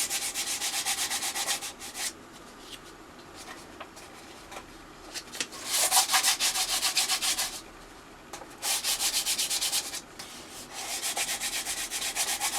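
Plywood being hand-sanded with fine 1200-grit paper, quick back-and-forth strokes of about five a second. There are four runs of strokes with short pauses between them, a smoothing pass before varnish.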